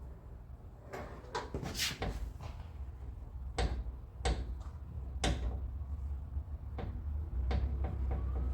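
Scattered metallic clicks and knocks, about eight spread over several seconds, from work on a car's door latch and lock mechanism. The latch is sitting too high and needs to come down a little.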